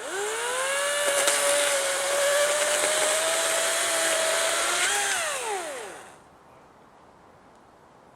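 Battery-powered electric chainsaw whining up to speed, running steadily for about five seconds, then winding down in pitch and stopping.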